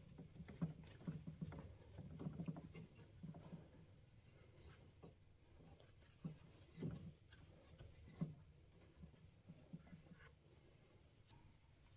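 Faint rustling and soft knocks of a cloth rag being stuffed into the open intake holes of an engine, busiest in the first few seconds, with a few soft knocks later.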